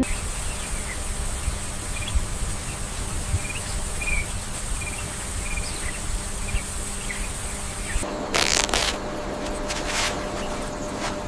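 Outdoor nature ambience: a steady insect-like buzz with scattered short, high chirps. About eight seconds in the background shifts, and a few brief rustling noises come through.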